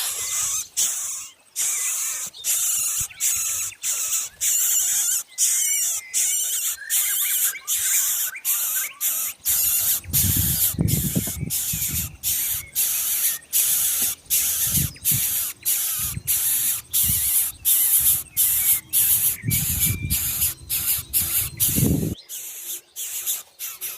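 Coucal nestlings in the nest giving harsh hissing calls over and over, about two a second.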